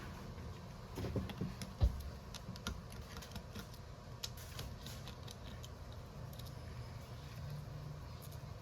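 Scattered light clicks and taps of small tools on a smartphone during a screen repair, with one sharper knock about two seconds in, over a steady low hum.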